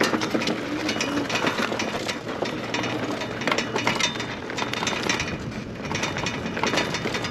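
Lectric e-bike rolling over rough dirt. Its frame and camera mount rattle with a dense run of quick clicks over steady tyre and ground noise.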